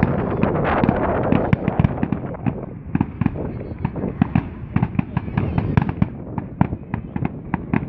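Fireworks exploding in a display: a dense crackling barrage with bangs, thinning after about two and a half seconds into a rapid run of separate sharp pops and crackles, several a second.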